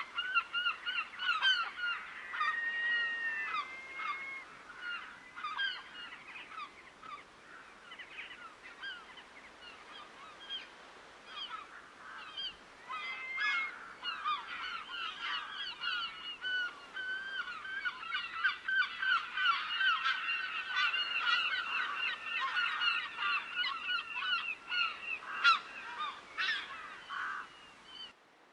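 A flock of geese honking, many short overlapping calls. The calls thin out for a while, then build into a dense chorus and stop abruptly just before the end.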